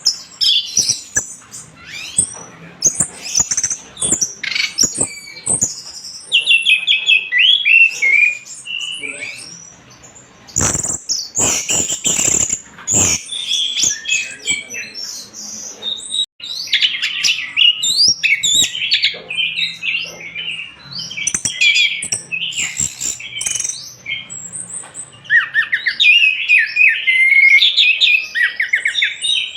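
Orange-headed thrush (anis merah) singing a fast, varied song of chirps, trills and rapid note runs, almost without pause. A few sharp knocks come in the middle.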